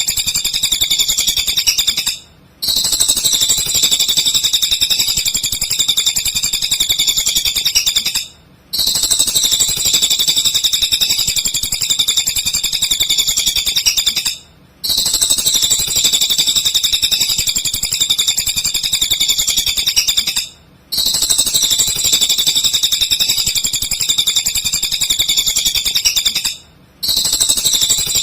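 Cililin bird singing a rapid, continuous, high-pitched chattering song. It breaks off for a split second about every six seconds, like a looped training recording.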